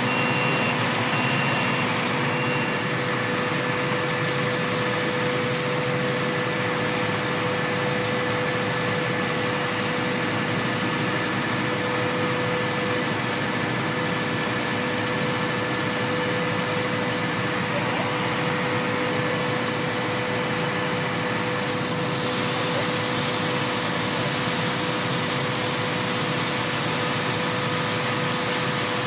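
Engine running steadily at a constant pitch, a continuous drone with a steady hum. A brief high swish about three-quarters of the way through.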